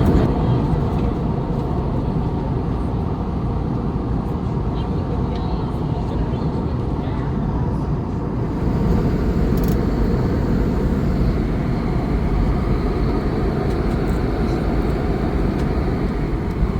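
Steady cabin noise inside an Airbus A321neo airliner descending towards landing: an even rumble and rush of engine and airflow noise that holds constant.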